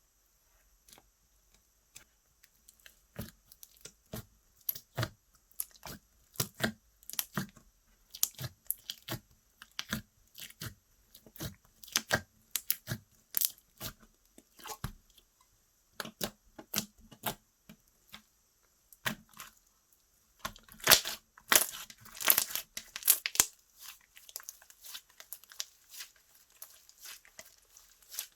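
Hands stretching, squishing and poking slime, making irregular sharp sticky pops and crackles, loudest in a cluster about 21 to 23 seconds in.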